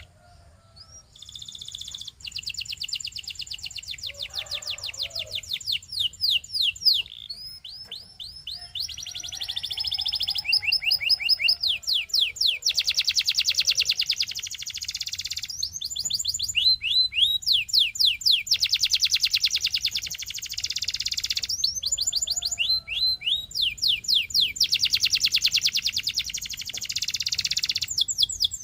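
Belgian singing canary in full song: a long run of rapid trills and rolls. Each phrase is a fast string of repeated notes lasting one to three seconds before it switches to the next.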